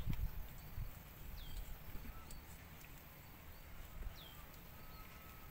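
Quiet rural outdoor ambience: a bird gives short downward-sliding calls several times, over a faint low rumble.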